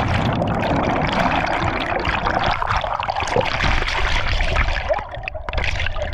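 Churning, splashing water close to the microphone as a jumper lands in and surfaces from a waterfall's plunge pool, with scattered small splashes and bubbling.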